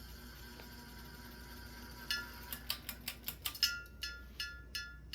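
Seasons hugger ceiling fan clinking rhythmically, sharp ringing clicks about three a second starting about two seconds in, over a faint steady hum. The owner puts the rattle down to loose screws.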